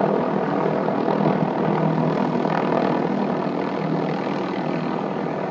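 Helicopter rotor and engine running steadily, a constant loud drone with no change in pitch.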